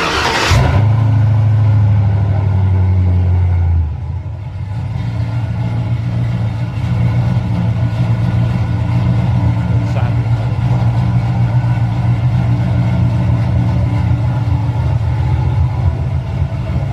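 6.0-litre LS V8 cold start: a brief crank, it fires within a second and holds a high fast idle for about three and a half seconds, then drops to a steady lower idle.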